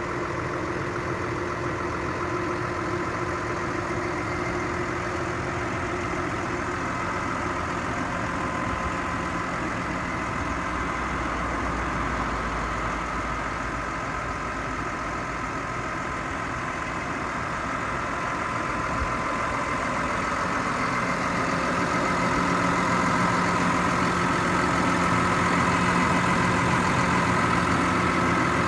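New Holland T6.180 tractor's six-cylinder diesel engine idling steadily, a little louder in the last third.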